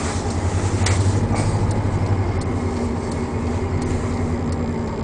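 A 2002 Chevy 3500 work truck's engine running while driving, heard from inside the cab as a steady low drone with road noise that swells slightly about a second in. The owner says this engine has a miss.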